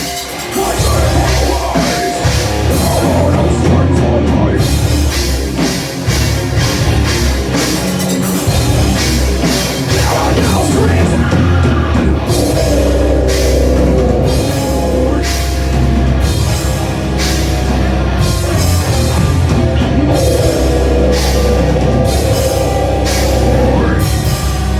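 Live rock band playing loud, heavy music, with a drum kit keeping a steady beat.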